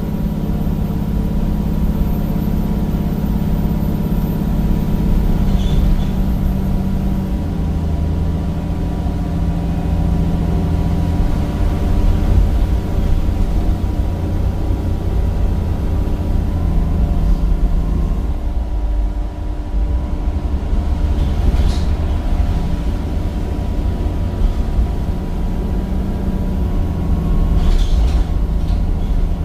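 Cummins diesel engine of a Temsa Avenue single-deck bus running under way, heard from inside the bus. The engine note changes pitch in steps several times, with a short dip about two-thirds of the way through, and there are a few light rattles from the body.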